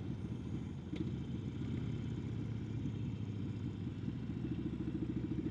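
Harley-Davidson Sportster XL1200N's air-cooled V-twin running at about 20 mph, its loud exhaust pulsing steadily, with a brief click about a second in. The pulses get a little louder in the last couple of seconds.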